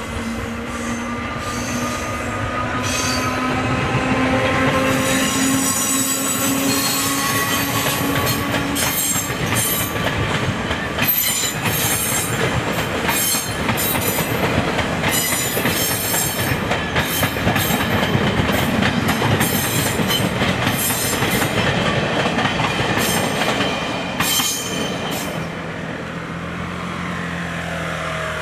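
Passenger train crossing a rail overpass: a hum rising a little in pitch as it comes on, then wheels clattering over the rail joints with high squealing tones through the middle. The train fades about 25 seconds in, leaving a low steady hum.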